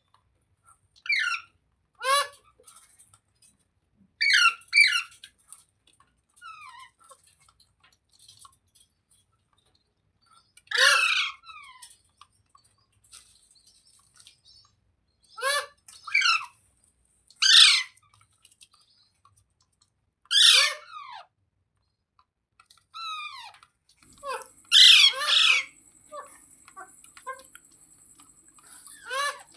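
Parrot giving short, harsh screeching calls in separate bursts, about ten in all, each call sliding down in pitch; the loudest run of calls comes near the end. A faint steady hum comes in near the end.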